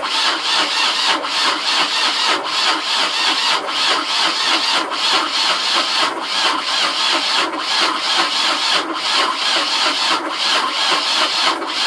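Boat diesel engine being cranked by its electric starter on a jumped battery, the starter grinding on without the engine firing, with an even heave about once a second as each cylinder comes up on compression. The cranking is meant to bleed air from the injectors of an engine that has sat unrun for years.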